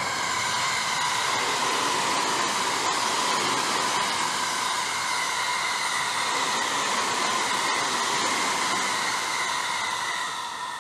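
285-series Sunrise Seto/Izumo sleeper train passing at speed: a steady rush of wheel and rail noise with a high steady whine running through it. It swells in at the start and fades away near the end.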